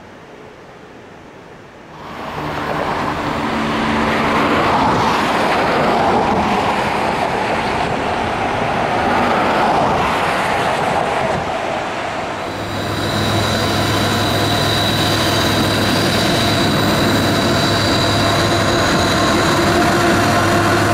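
A freight train approaching across a steel trestle bridge. First comes a loud rushing noise that rises about two seconds in. From about twelve seconds in, Canadian National diesel locomotives run past, giving a steady low engine drone and a thin, high, steady squeal from the wheels.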